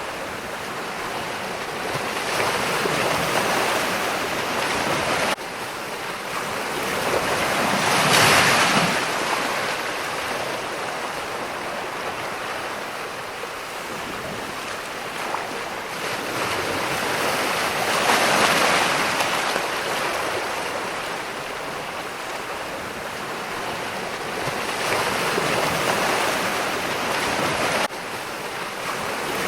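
Ocean surf: waves breaking and washing in, each one swelling and fading over several seconds, with about three big surges. The level drops suddenly twice.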